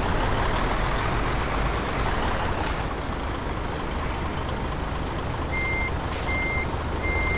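Tanker truck running steadily with engine and road noise. A little past halfway an electronic warning beeper starts, a single high beep repeating about every 0.7 s. Two short sharp air hisses, one about a third of the way in and one among the beeps.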